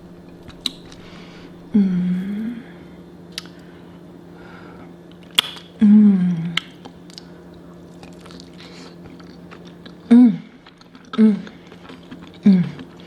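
Close-miked eating sounds from a seafood boil: chewing and a few sharp clicks, broken by about five short closed-mouth hums of enjoyment. A steady low hum runs underneath.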